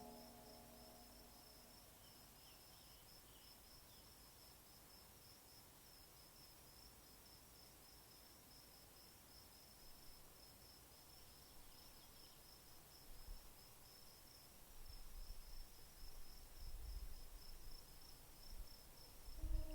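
Near silence with a faint insect trill, a rapid, even pulsing chirp that runs steadily. A faint low rumble comes and goes in the second half.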